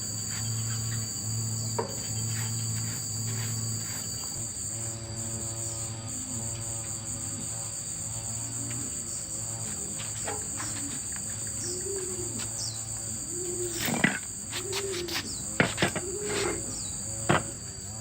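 Insects trilling steadily, with a few sharp clicks or knocks near the end.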